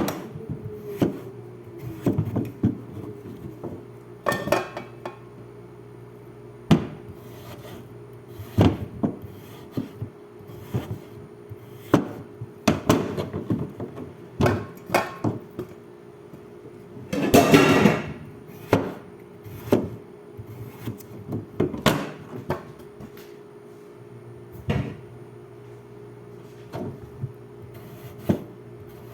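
Irregular knocks and clatter of kitchen utensils on a wooden cutting board during food preparation, with a longer scraping rustle a little past the middle. A low steady hum runs underneath.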